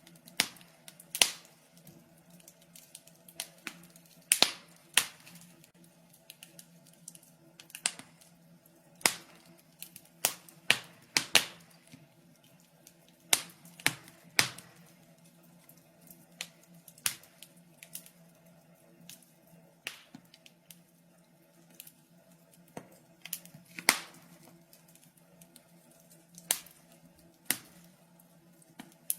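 Wood fire crackling in a fireplace: irregular sharp pops and snaps, a few loud ones among many small ticks, over a faint steady hum.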